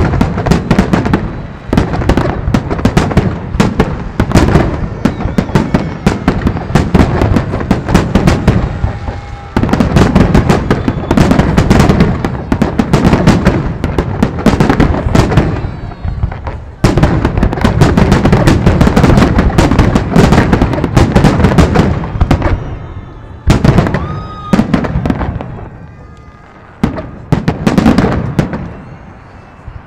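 A fireworks display: a rapid, dense barrage of aerial shells bursting and crackling. It pauses briefly twice and thins out to scattered bangs in the last few seconds.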